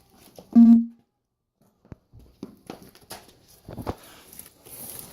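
A short, loud pitched squeak or yelp about half a second in, followed by several separate light knocks and clanks as parts are handled while refitting a dirt bike's rear wheel.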